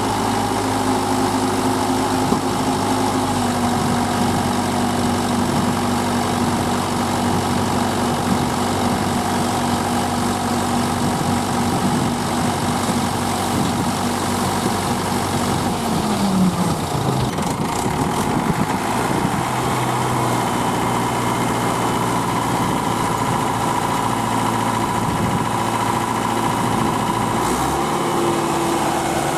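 Heavy diesel engine running steadily. About two-thirds of the way through its pitch falls as it revs down, and it settles into a different steady note near the end.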